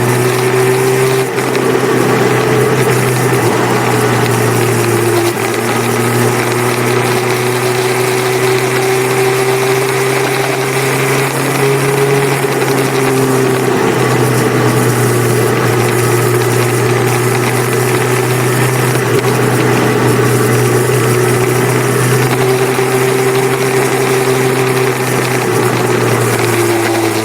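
Motorcycle engine running steadily, its pitch drifting gently up and down, over a continuous hiss of wind and road noise.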